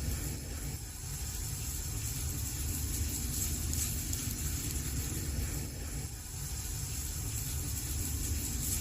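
Wood fire burning in a fireplace: a steady low rumble of flames under a hiss, with a few faint crackles.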